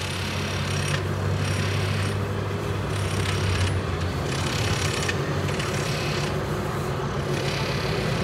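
Passenger train running along the line, heard from on board: a steady low engine hum under a rasping rolling noise from the wheels that swells and fades about once a second.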